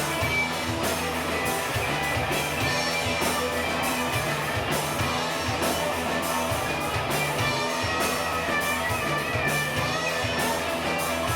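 Rock band playing, with guitar to the fore over a steady, even beat in the bass and drums.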